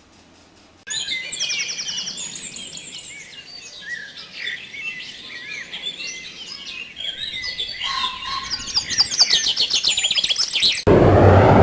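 Birdsong: a busy mix of chirps, whistled up-and-down glides and fast trills, starting abruptly about a second in. Near the end it cuts off suddenly into a loud, steady engine drone.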